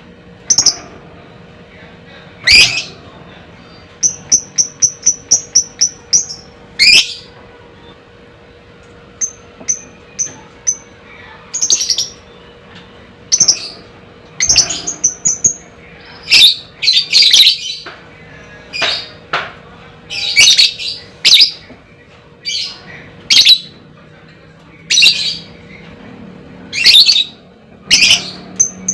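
Lovebird calling: loud, sharp shrieking calls repeated every second or so, with quick runs of short high chips about four seconds in and again about nine seconds in.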